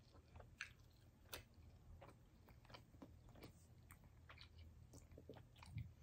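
Faint chewing of chicken-wing meat with the mouth closed, with scattered soft, short mouth clicks.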